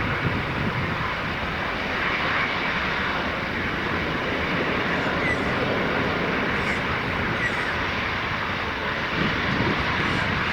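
Airbus A350-900 taking off, its Rolls-Royce Trent XWB jet engines making a steady, even noise at high power.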